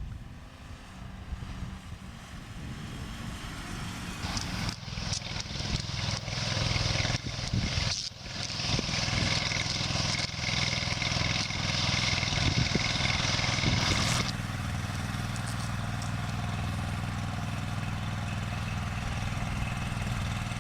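Fire truck engine running steadily. From about five seconds in, a loud hiss rides over it, then cuts off abruptly about fourteen seconds in.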